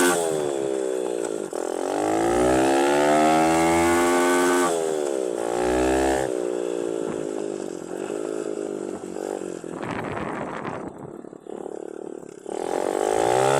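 A 110 cc semi-automatic mini dirt bike's single-cylinder engine being ridden, its pitch climbing and falling again and again with the throttle and the gear changes. It drops low about ten seconds in, then revs up again near the end.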